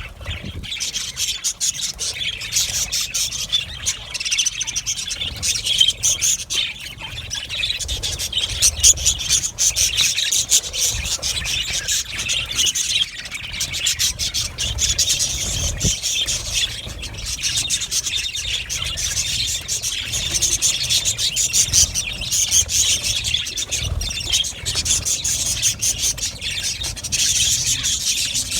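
A flock of budgerigars chattering and chirping continuously, many birds calling at once, with a low rumble underneath.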